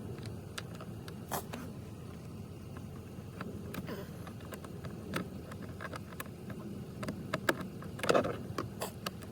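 2013 Kia Optima heard from inside the cabin: a steady low engine and road rumble with scattered light clicks and taps, a louder cluster of them about eight seconds in. The steering wheel, with its rubber piece newly replaced, turns without popping.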